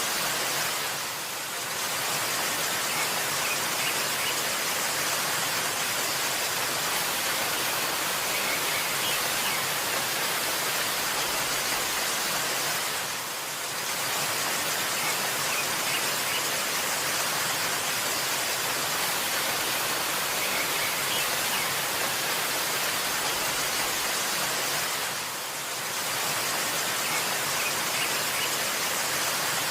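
Waterfall: a steady, hissy rush of falling water that briefly dips in level three times, about every twelve seconds, with a few faint high chirps over it.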